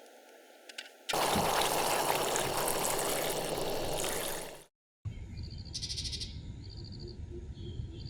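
A loud, steady rushing noise like running water starts about a second in and cuts off abruptly; after a brief silence comes quieter outdoor ambience with several short, rapid trilling calls.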